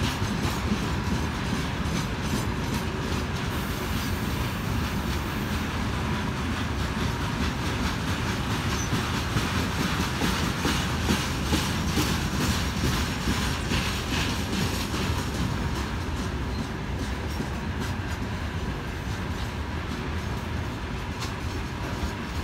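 Freight train wagons (tank cars, covered boxcars and open gondolas) rolling past, their wheels clattering steadily over the rail joints in a dense run of knocks. The rolling eases slightly near the end.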